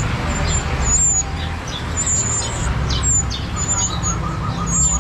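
Many caged songbirds chirping and whistling at once, with thin high calls throughout and a quick run of repeated notes in the last couple of seconds, over a steady low background rumble.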